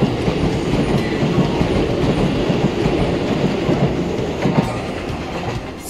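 Hokuso Railway electric commuter train running along the station platform and out of the station, a dense steady rumble of the passing cars that eases a little near the end.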